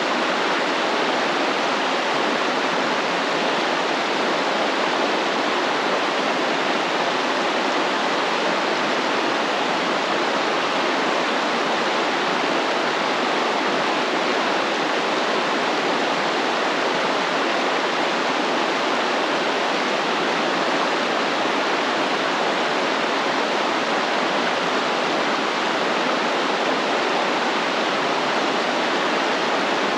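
Flowing stream: a steady, unbroken rush of running water.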